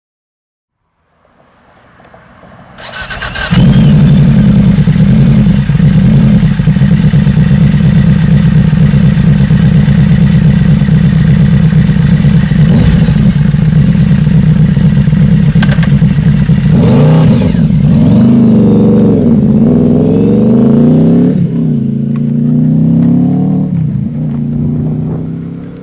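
Yamaha V-Max motorcycle's V4 engine, coming in over the first few seconds and then running loud and steady. In the second half it revs up and down several times before fading near the end.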